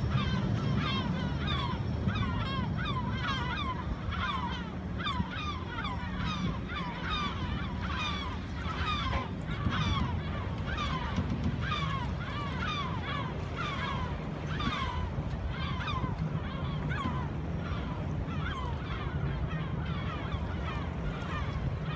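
Birds calling over and over, several short honking calls a second that bend in pitch, over a steady low rumble.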